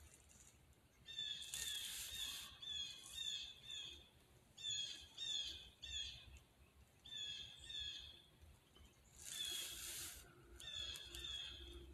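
A bird calling in short, repeated, downward-sliding notes in runs of two to five. There is a brief rustling hiss about a second in and another near the end.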